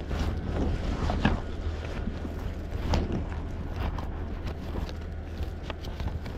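Strong wind buffeting the microphone in a steady low rumble, with a few sharp clicks and knocks through it.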